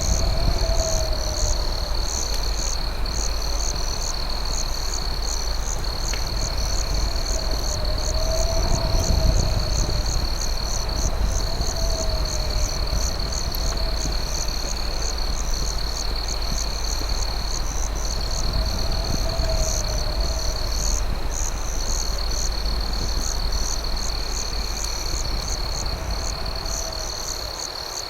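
Night chorus of crickets: a steady high trill with a fast, even run of higher chirps over it. A lower wavering call comes in every few seconds, over a continuous deep rumble.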